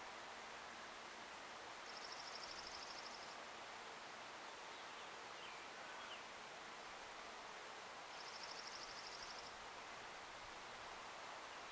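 A small bird's high, fast trill, about a second and a half long, sung twice about six seconds apart over a faint steady outdoor hiss.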